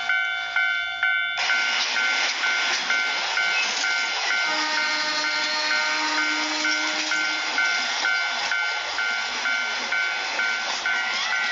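Japanese level-crossing alarm ringing in a steady ding-ding about twice a second. About a second and a half in, the rushing noise of a passing train starts and covers much of it, with the alarm still heard through.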